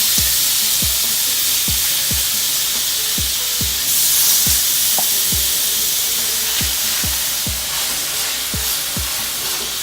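Seasoned chicken frying in a pan of olive oil and garlic butter, a steady sizzle. Background music with a regular bass beat plays underneath.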